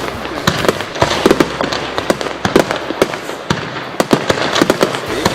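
Fireworks display: a rapid barrage of sharp bangs and crackles, several a second without pause.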